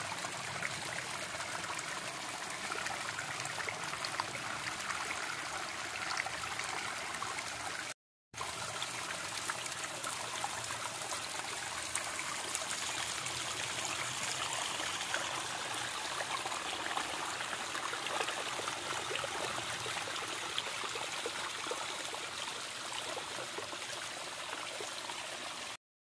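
Hillside waterfall fed by fresh rain runoff from the rocks, water babbling and splashing steadily. The sound drops out briefly about 8 seconds in.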